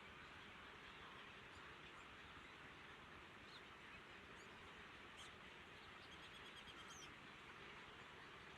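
Faint, high bird chirps scattered over a steady background hiss, with a short rapid trill about two thirds of the way in.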